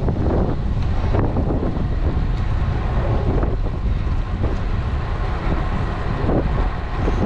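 Wind buffeting the GoPro action camera's microphone while riding a road bike at speed: a steady, loud, low rumbling rush.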